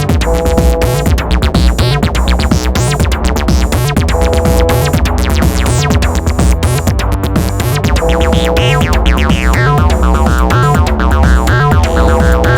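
Make Noise eurorack modular synthesizer playing an improvised acid-style electronic jam: a sequenced low bassline and drum-machine beat under sharp clicking percussion, with a short held chord sounding about every four seconds. About ten seconds in, the high end is filtered down.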